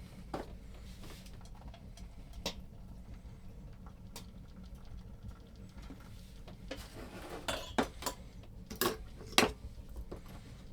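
Sporadic light knocks and clinks of hard objects being handled, with a cluster of sharper knocks in the last few seconds.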